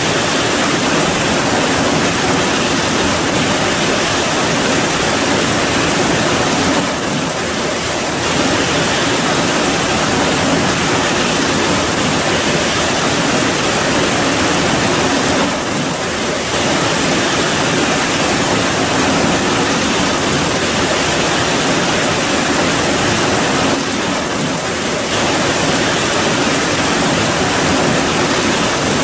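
Steady, dense rain making an even hiss, with a brief slight dip in level roughly every eight seconds.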